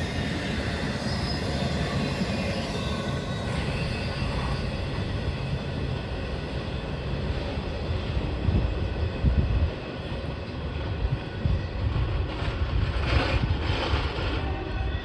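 CSX intermodal freight train's container well cars rolling past, a steady rumble of wheels on rail, swelling a little about twelve to fourteen seconds in.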